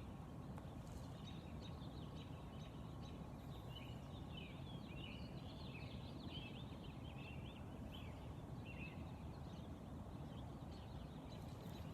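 Faint distant songbird chirping: a run of quick, short high notes from about two seconds in until about nine seconds, over a steady low outdoor rumble.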